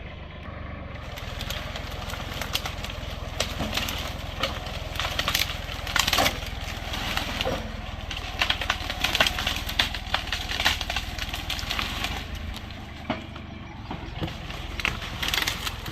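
Kubota tractor's diesel engine running steadily while its Farmi winch yards a log out through brush, with frequent sharp cracks and snaps of wood and branches.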